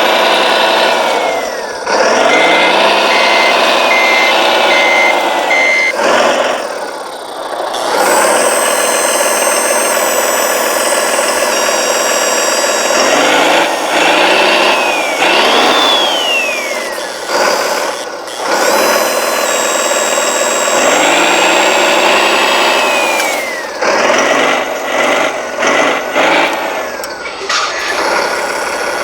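1:14 scale radio-controlled construction machines running, their motor sound repeatedly rising and falling in pitch as the models are worked. About two seconds in, a reversing beeper sounds about five times.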